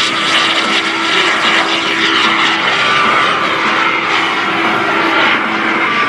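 PBS TJ100 small turbojet of a Super Salto jet sailplane running steadily in flight: a continuous jet rush with a thin steady whine.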